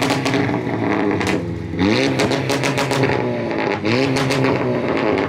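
Car engine revving in repeated blips, the pitch rising and falling back about six times.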